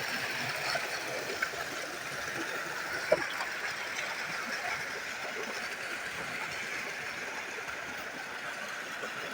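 Steady rush of running water, with a sharp click about three seconds in.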